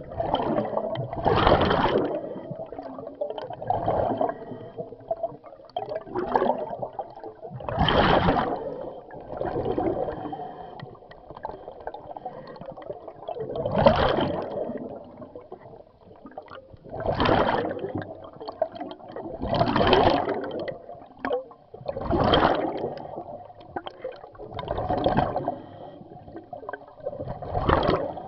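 Scuba diver breathing through a regulator underwater: a gurgling rush of exhaled bubbles about every two to three seconds.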